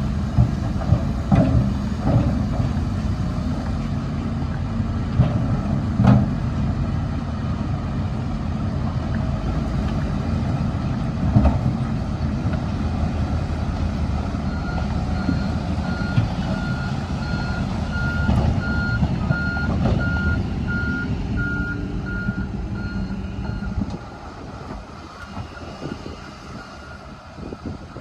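Heavy diesel earthmoving machinery running steadily, with a few metal clanks. About halfway in, a reversing alarm beeps about twice a second for around eight seconds. Near the end the engine noise drops off sharply.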